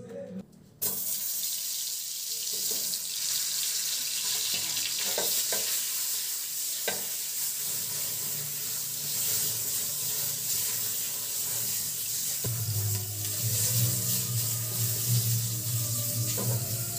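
Whole brinjals (eggplants) sizzling in hot oil in a frying pan; the sizzle starts suddenly about a second in as they go into the oil, with a few sharp pops partway through.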